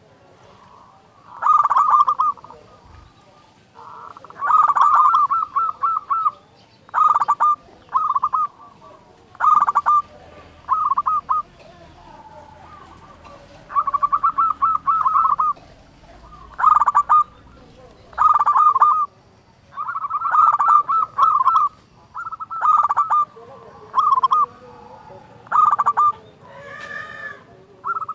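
Zebra dove (perkutut) cooing loudly: short phrases of quick staccato coos at a steady pitch, one phrase every second or two. Near the end a different, drawn-out call with several tones comes in briefly.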